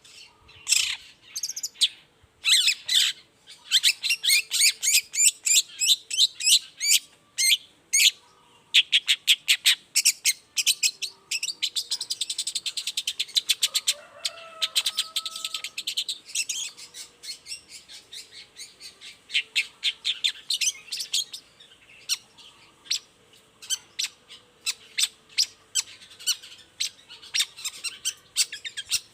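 Long-tailed shrike (cendet) singing a fast, chattering song: runs of rapid, sharp notes broken by short pauses. About halfway through comes a lower whistled phrase.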